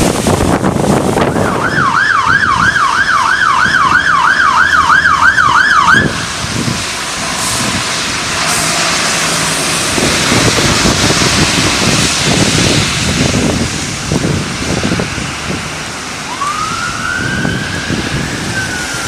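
Emergency vehicle siren on a fast yelp, sweeping up and down about three times a second, then cutting off suddenly. Near the end a slower wail rises and starts to fall, over a steady rushing noise.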